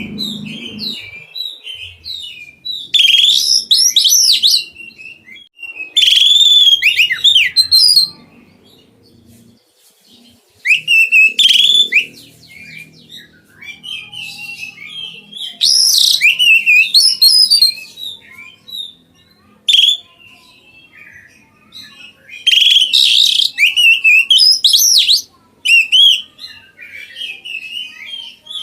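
An oriental magpie-robin (kacer) singing in loud, varied phrases of rapid whistles and chatter. The phrases last one to three seconds each and are separated by short pauses.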